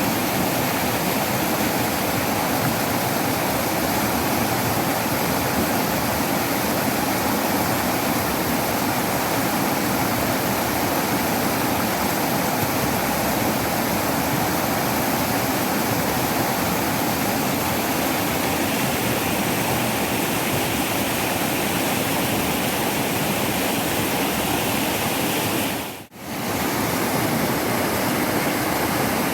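Waterfall rushing steadily, a dense even roar of falling water. It cuts out for a moment about 26 seconds in and comes straight back.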